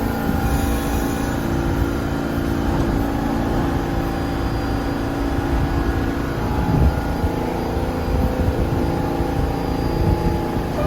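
New York City subway train making a steady hum and low rumble, with a brief louder jolt a little past the middle.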